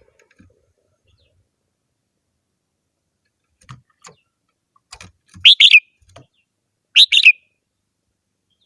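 Red-whiskered bulbul singing: two short, loud phrases about a second and a half apart in the second half, with a few faint knocks before them.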